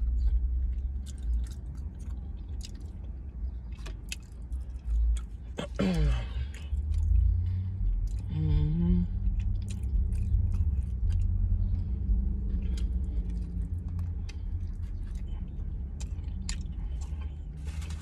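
Close-up chewing and wet mouth clicks of someone eating a chicken tinga burrito, over a steady low hum. Two short hummed voice sounds come about six and eight and a half seconds in.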